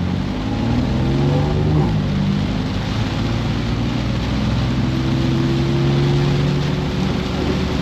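BMW F82 M4's twin-turbo inline-six accelerating: its pitch climbs, drops at an upshift about two seconds in, then climbs slowly again and eases off near the end. Under it runs a steady hiss of heavy rain and tyre spray coming in through the open driver's window.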